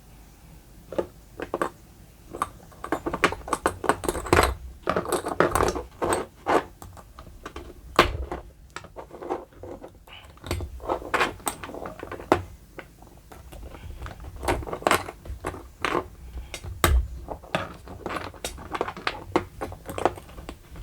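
Hair trimmer blade and its spring assembly being worked back into place by hand: irregular clicks, taps and scraping of small metal and plastic parts.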